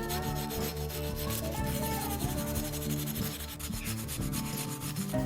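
A steady rubbing, scraping sound over soft background music.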